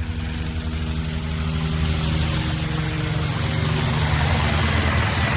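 Small motor running steadily with a whirring hiss that grows slightly louder, the kind of motor that spins a toy helicopter's propeller.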